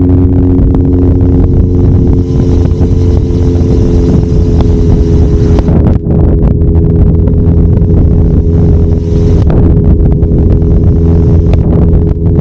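Kawasaki Zephyr 750's air-cooled inline-four engine running at a steady pitch under way, with wind rushing over the microphone. The engine sound drops briefly about six seconds in.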